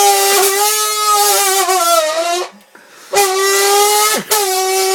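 A man making a car engine noise with his mouth into a can used as an exhaust: a loud, steady buzz held for about two and a half seconds that sags slightly in pitch near its end, then after a short pause a second long buzz with a brief break partway through.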